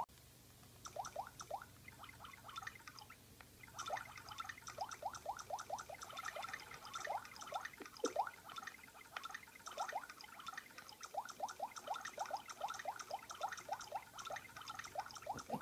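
A parrot making rapid soft clicking sounds with its tongue. Each click is a short rising pip, several a second, in runs with a brief lull.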